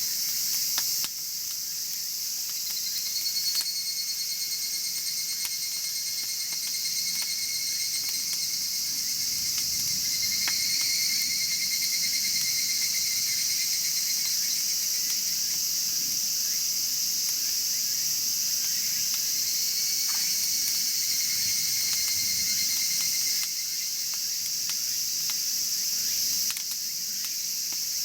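Crickets and other insects chirping in a steady high chorus, with a louder cricket's pulsing trill coming and going a few seconds at a time. A few faint pops from a wood fire burning in a chimney fire pit.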